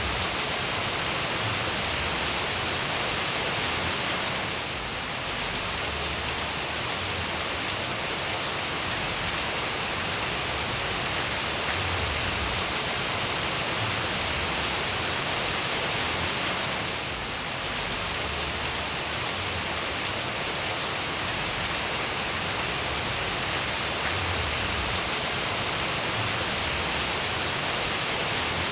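Steady, dense rainfall, an even hiss of many drops with no single drops standing out. It dips slightly in loudness twice, about five seconds in and again around seventeen seconds.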